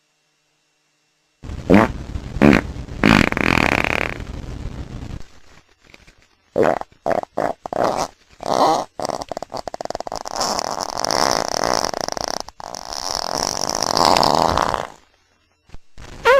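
A series of loud, sputtering, fart-like noises: short blasts first, then a long rough buzz that stops near the end.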